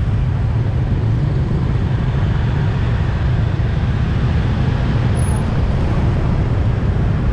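City street traffic: a steady, dense rumble of passing vehicle engines and tyres. A brief faint high-pitched squeak comes about five seconds in.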